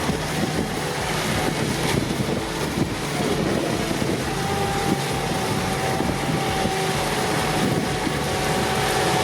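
A heavy machine's engine running steadily, with wind noise on the microphone; a faint steady whine joins in about halfway through.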